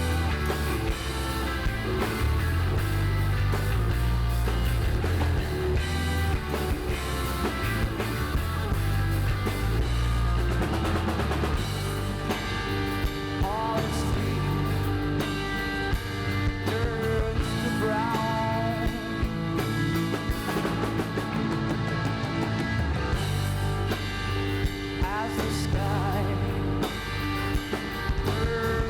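Live rock band playing, with a full drum kit and strong bass under sustained guitar or keyboard parts and a few sliding notes.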